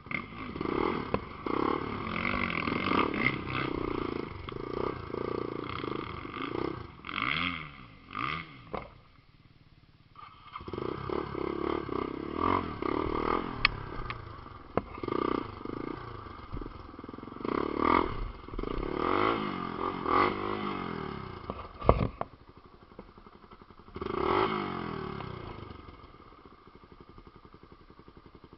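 Off-road motorcycle engine revving hard in repeated surges as it climbs a steep trail, the revs rising and falling, easing off briefly about nine seconds in. A sharp knock is heard about 22 seconds in.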